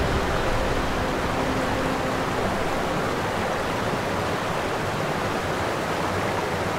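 Steady rushing noise like flowing water, even throughout, with a faint low hum in the first couple of seconds.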